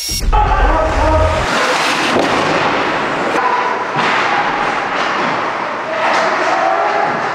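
Ice hockey game sound in an arena: a steady crowd din with scattered shouts, broken by several sharp knocks of puck and sticks against the boards.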